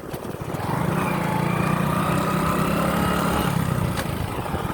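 Motorcycle engine running under way. About a second in it picks up and then holds a steady pitch.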